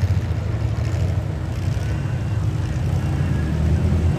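Several six-cylinder demolition derby car engines running together, a steady low rumble.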